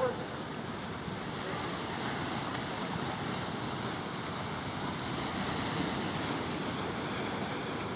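Sea surf: a steady rush of waves washing in. A brief pitched squeak comes right at the start.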